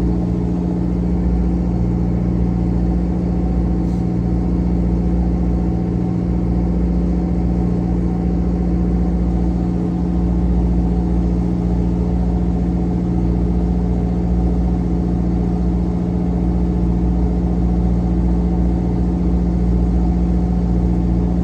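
A fishing trawler's engine running steadily at constant speed, a continuous low hum with no change in pitch.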